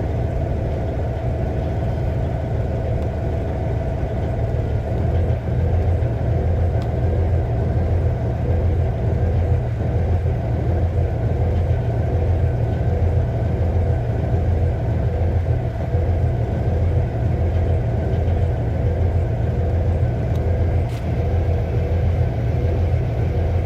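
Cummins ISX inline-six diesel engine idling roughly, with a deep, uneven pulsing beat.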